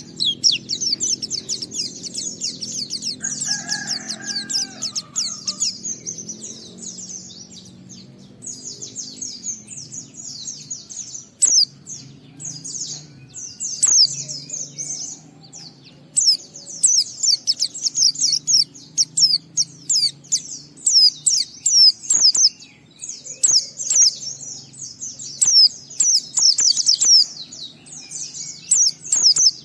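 Pleci (white-eye) singing a rapid, high, twittering song in long unbroken runs with short pauses. This is the 'ngalas' song style, played as a lure to set other pleci singing.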